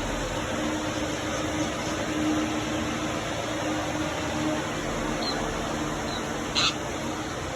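Steady machine hum and hiss, like a ventilation fan, with a faint low tone. A small bird gives a couple of faint high chirps and then one short, louder chirp about six and a half seconds in.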